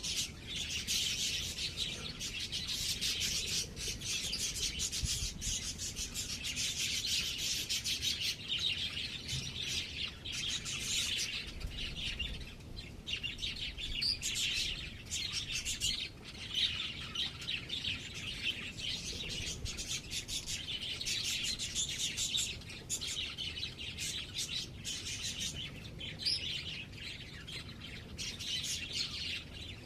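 Birds chirping and twittering in a dense, rapid, unbroken stream of high chirps.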